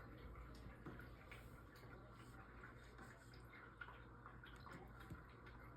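Faint, irregular small clicks and ticks of a kitten chewing and gnawing, over a low steady hum.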